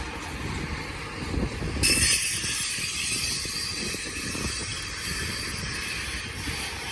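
Freight train rolling past, a steady low rumble with knocks from the wheels on the rails. About two seconds in, a steady high hiss comes in suddenly and holds.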